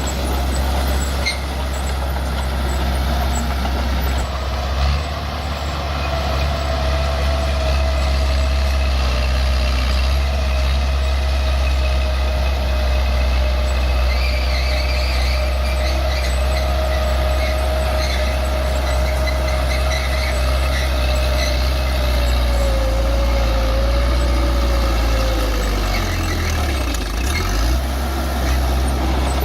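Bulldozer's diesel engine running steadily under load, with a thin steady whine through most of it; the engine note shifts briefly near the end.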